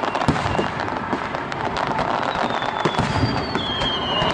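Aerial fireworks bursting: a dense, continuous run of pops and crackles, with thin high whistling tones sliding slightly down in the second half.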